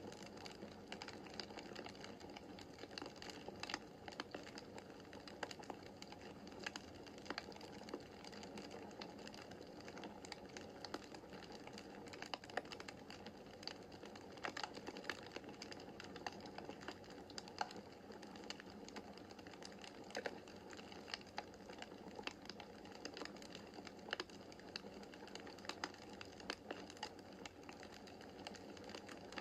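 Wood fire crackling in a fireplace: a faint steady hiss of the flames with many irregular sharp pops and snaps from the burning logs.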